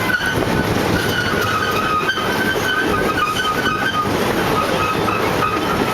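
Amusement-park ride train running along its track, a steady rumble of wheels on rails with a high squeal that comes and goes, dipping slightly in pitch about two seconds in.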